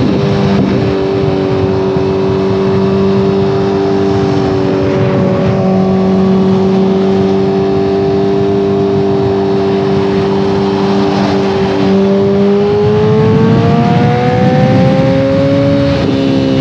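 2014 Kawasaki ZX-14R inline-four engine running through a Brocks Alien Head 2 full exhaust at a steady cruise, under a rush of wind noise. About twelve seconds in, the exhaust note rises as the bike accelerates, then drops slightly near the end.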